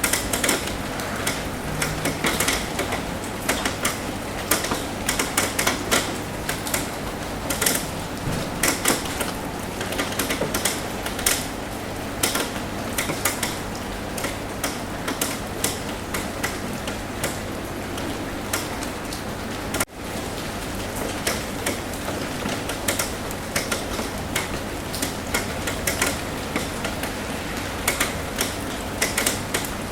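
Rain tapping on a roof: many irregular, sharp drop taps over a steady hiss of rain, with a brief dip in level about two-thirds of the way through.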